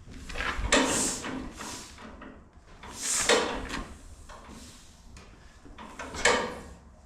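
Four hissing swishes, about three seconds apart, as the flywheel of a 1936 John Deere A two-cylinder is turned over by hand for a cold start, with a cylinder petcock open and the engine not yet firing.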